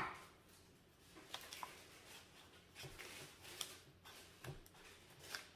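Faint handling sounds of paper and scissors: a few light clicks and short rustles, quiet throughout.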